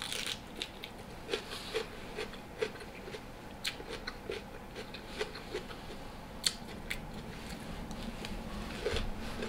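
A person chewing a mouthful of food close to the microphone, in a steady rhythm of about two to three chews a second, with a few short crunchy, wet mouth clicks.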